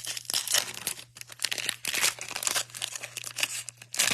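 Foil wrapper of a pack of Bowman baseball cards crinkling and tearing as it is handled and opened, a dense run of crackles.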